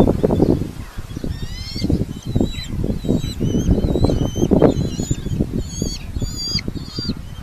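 Red-footed falcons calling at the nest: a run of short, high, repeated notes starting a second or two in, over steady low rumbling and thumps.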